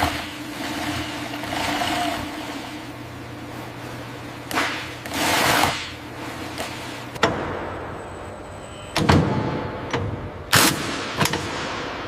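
Workshop machinery sounds: a low steady hum with two bursts of hissing partway through, then a run of sharp metallic clanks and knocks, four of them loud, in the second half.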